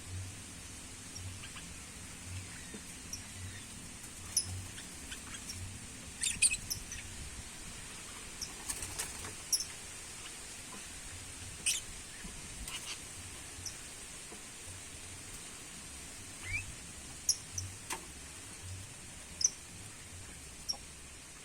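Scattered short, sharp chirps and clicks from small birds in an aviary, some in quick clusters, over a steady faint hiss.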